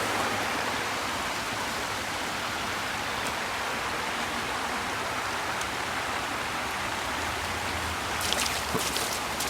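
Small creek waterfall, water rushing and splashing steadily. A few short crackles near the end.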